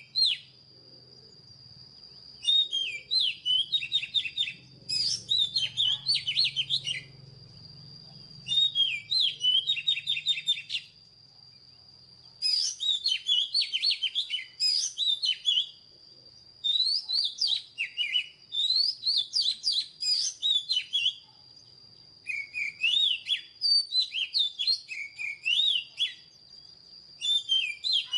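Oriental magpie-robin singing: repeated phrases of quick, varied whistled notes, each lasting a few seconds, with brief pauses between them. A thin steady high tone runs underneath.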